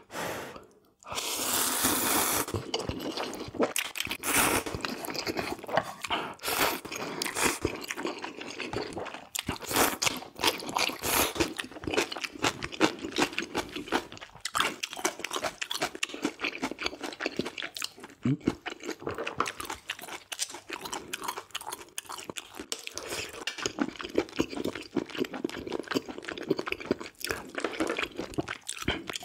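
Close-miked eating: steady moist chewing and crunching of food in the mouth, with a louder noisy burst about a second in.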